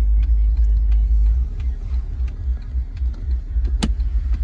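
Low, steady rumble of a 2016 Jeep Wrangler's 3.6-litre V6 idling, heard inside the cabin. One sharp click near the end.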